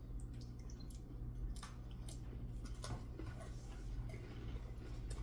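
People chewing crisp butter sablé biscuits, with a few scattered faint crunches over a steady low hum.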